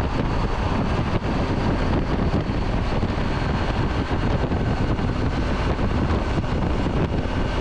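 Steady wind rush and road noise from a 2017 Triumph Tiger 800 XCA cruising at freeway speed, with its three-cylinder engine running underneath at an even pace.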